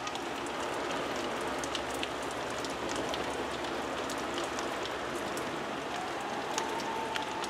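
Heavy thunderstorm rain pouring steadily, with scattered sharp drip ticks. A faint tone glides upward near the end.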